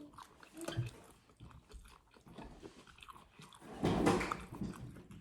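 Close chewing and biting of spicy chicken-feet salad: short wet crunches and clicks, with a louder crunch about four seconds in.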